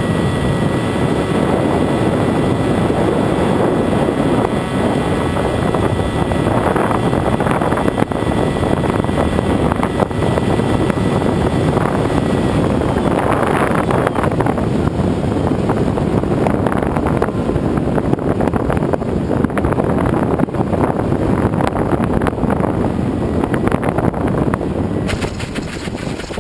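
Radio-controlled aerial-filming airplane in flight, heard from its onboard camera: propeller and motor noise mixed with wind rushing over the microphone. A steady whine in it stops about halfway through while the rushing noise carries on.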